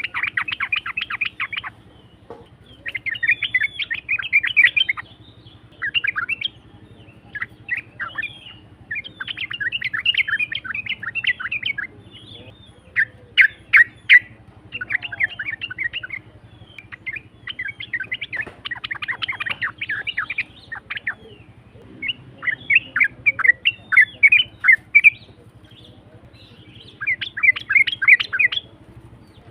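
Yellow-vented bulbul (trucukan) singing in a rough voice: a long run of fast, chattering phrases, each about one to two seconds long with short pauses between them.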